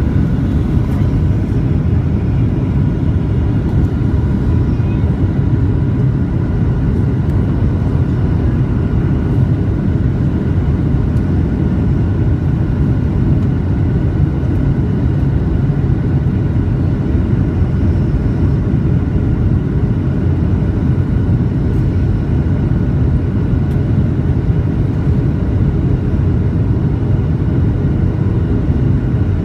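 Steady low rumble of an airliner's engines and airflow, heard from inside the cabin during the landing approach, with faint steady whining tones above it.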